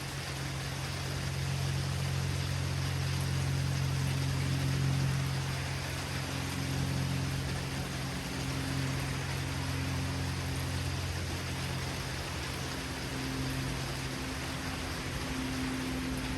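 Steady hiss of heavy rain in a thunderstorm, with a low rumble underneath that swells over the first few seconds and eases after about eight seconds.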